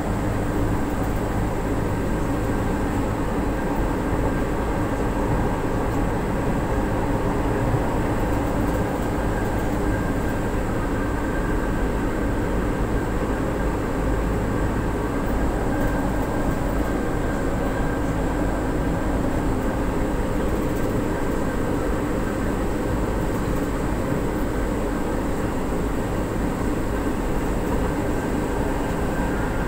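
Steady running noise inside a moving MRT-3 light-rail train car, a constant rumble of wheels on rails and the car in motion with a faint steady high tone over it.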